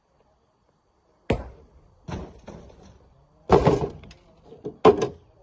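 Rocks being handled in manual loading work: a run of heavy, irregular knocks of stone striking stone or metal, starting after a second or so of quiet, one of them longer with a brief rattle of tumbling rock.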